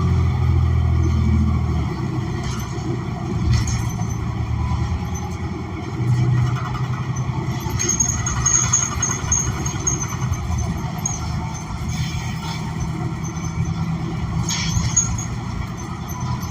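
Inside a 2016 New Flyer XN40 CNG transit bus on the move: the Cummins Westport ISL G engine runs with its note changing as the bus speeds up and slows, under road noise and a few knocks. A thin high hiss or squeal comes in about eight seconds in and again near the end.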